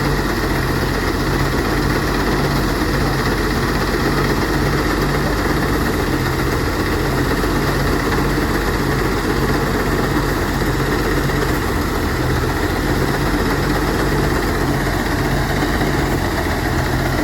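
Engine-driven rice threshing machine running steadily, with a low throb that pulses at an even beat.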